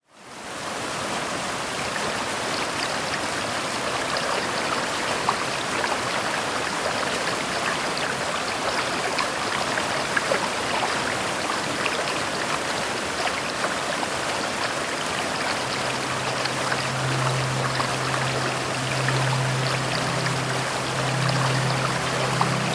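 Steady rainfall, a dense hiss with many small drop ticks, fading in at the start. About two-thirds of the way through a low steady hum joins it.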